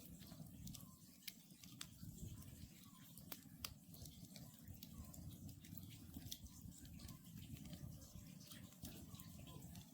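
Wood campfire crackling, with scattered sharp pops over a low steady rumble. Faint short calls of an Oriental scops owl repeat through it.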